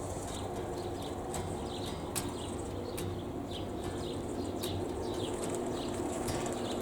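Birds chirping in short, falling calls, a few each second, over a steady low rumble of wind.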